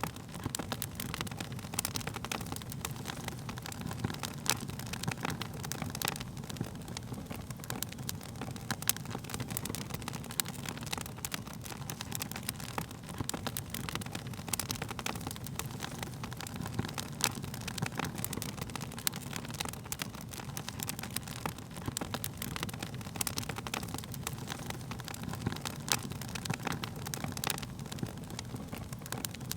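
Wood fire burning, with a steady low rush of flame and frequent sharp crackles and pops from the burning wood at irregular intervals.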